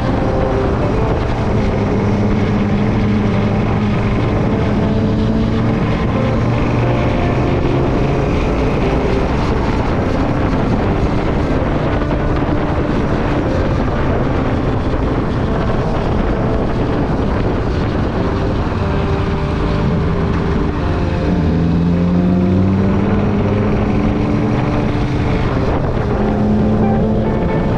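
Motorcycle engine running under way, most likely the Yamaha Dragstar XVS 1100's air-cooled V-twin, with wind rushing over the microphone. The engine pitch rises about three-quarters of the way through as the bike accelerates.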